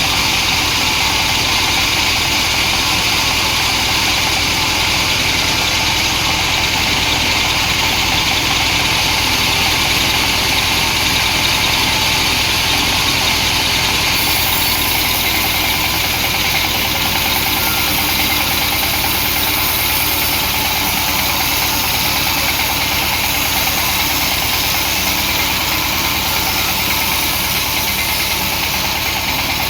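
Chainsaw engine running steadily under load as the saw rips lengthwise through a hardwood log.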